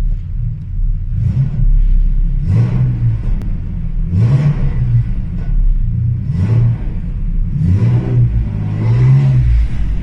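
Alfa Romeo GTV's 3.0 V6 engine blipped about six times from idle, each rev rising and falling within about a second over a steady low rumble. It breathes through a Ragazzon Group N single-exit rear silencer, a standard centre silencer and a gutted catalytic converter.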